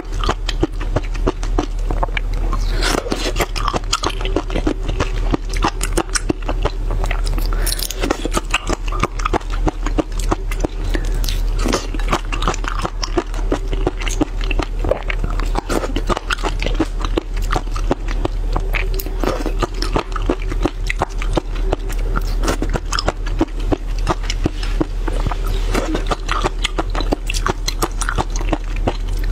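Close-miked biting and chewing of mud snails: a continuous run of small wet clicks, smacks and crunches.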